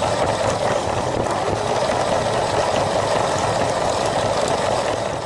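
Small electric motor of a LEGO train running steadily as its wheels roll along the track.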